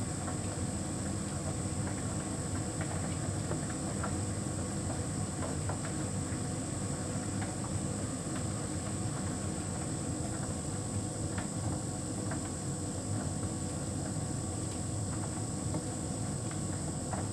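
Hotpoint heat pump tumble dryer running mid-cycle: a steady, even machine hum from the turning drum and fans, with faint light ticks now and then.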